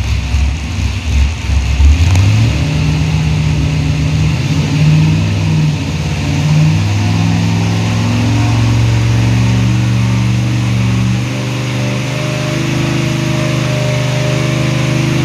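Small-block Chevy 350 V8 cranking and catching about two seconds in, revving up and down a few times, then settling into a steady fast idle.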